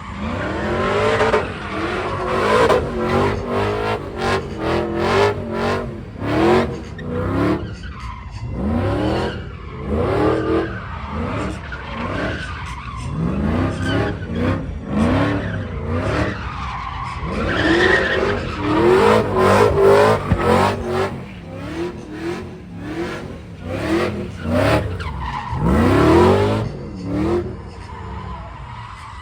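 Car engines revving again and again in rising sweeps, with tires squealing and skidding.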